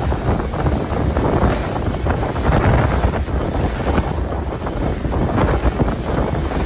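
Wind buffeting the microphone over the steady rush of a fishing boat on open sea, a loud, rough, low rumble with no distinct events.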